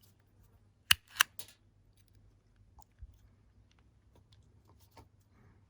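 Cable stripper snapping shut twice in quick succession about a second in as it grips and strips the insulation off the extension cable's wires, followed by a few faint ticks of handling.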